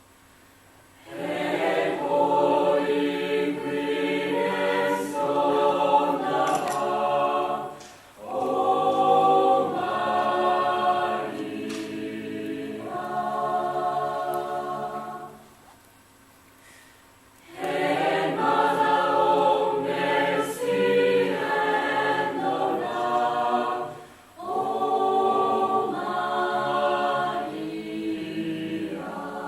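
Unaccompanied vocal group singing chords in close harmony, in long phrases separated by brief breaths. The singing stops for about two seconds midway.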